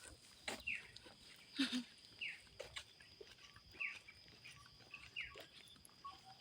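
A forest bird repeating a short call that drops in pitch, about every second and a half, over a steady thin high-pitched insect whine, with scattered light clicks.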